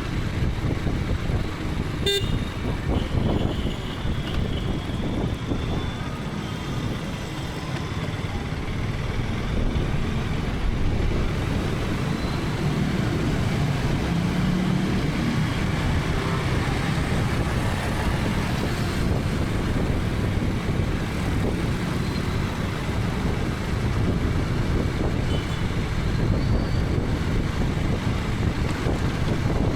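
KTM 250 Adventure's single-cylinder engine running under way, with wind and road noise on a helmet camera. A vehicle horn toots briefly about two to three seconds in.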